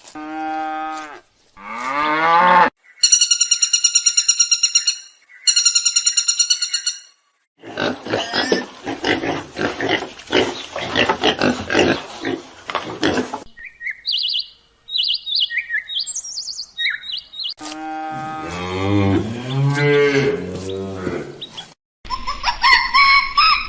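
A string of different animal calls, one clip after another with sudden cuts between them. First come short pitched calls, then two long, high, rapidly pulsing trills, several seconds of harsh noisy calls, a scatter of short high chirps, and lower drawn-out calls near the end.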